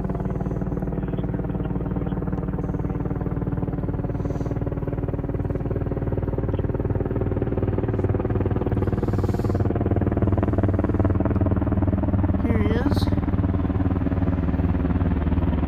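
Sikorsky CH-148 Cyclone military helicopter flying close by: a steady rotor and twin-turbine drone. It grows louder over the last several seconds while its pitch slowly drops.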